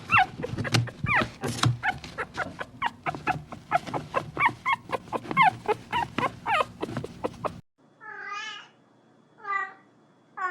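A dog whining in quick high cries, several a second. After a sudden cut near the end, a cat meows twice.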